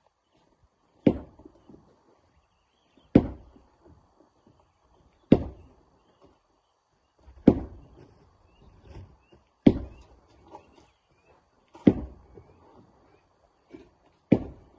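Heavy hammer blows breaking rock: seven sharp strikes at a steady pace of about one every two seconds, each followed by a brief rattle of falling fragments.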